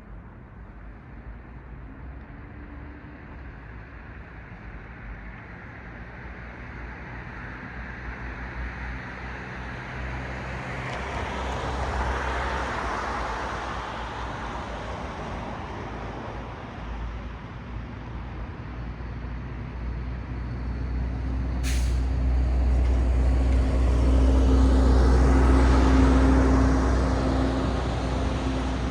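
Road traffic passing: one vehicle swells past about twelve seconds in, then a louder one with a deep engine rumble and a steady low hum passes near the end. A brief sharp hiss sounds shortly before the loudest pass.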